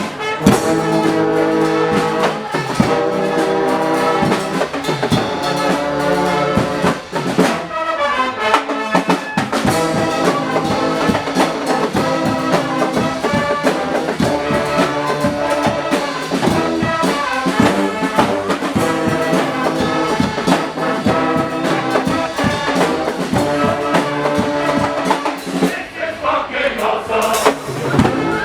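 Guggenmusik band playing loud carnival brass music, trumpets and trombones over a driving drum beat.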